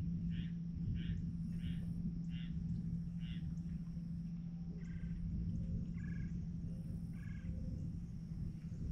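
A bird calling a run of evenly spaced notes, about two a second, for the first three seconds or so, then three more widely spaced calls of a different shape. Under it runs a steady low rumble and hum.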